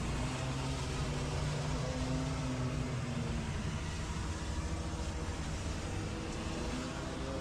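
Small gas engine of lawn care power equipment running steadily at a constant speed, with a rushing noise over it.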